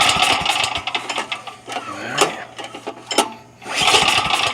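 Recoil starter rope of a 5,000-watt portable generator engine pulled twice, about four seconds apart: each pull is a rasping whir of about a second as the engine turns over, and it does not start running.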